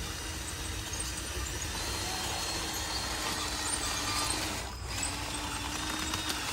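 Small electric motor and gearbox of a radio-controlled construction model running steadily with a thin whine, easing briefly about five seconds in.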